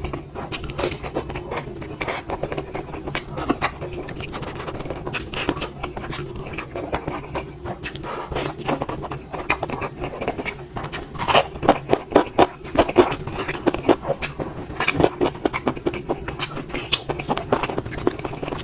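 Eating sounds: a run of short clicks and scrapes, like food being mixed and scooped on a plate, busiest around the middle and again near the end, over a steady low hum.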